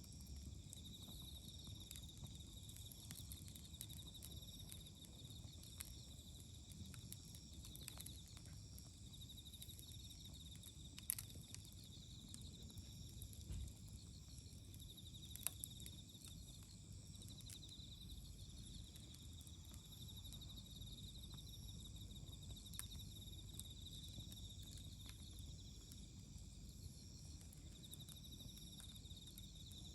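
Faint campfire crackling, with scattered small clicks and two sharper pops near the middle, under a steady high trilling of autumn insects.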